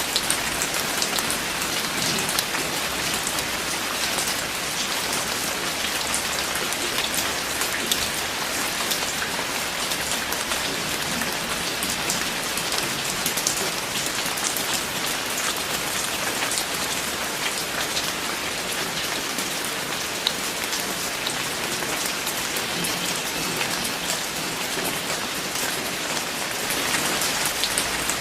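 Steady rain falling, a dense hiss of many drops with fine individual drop ticks on a hard surface.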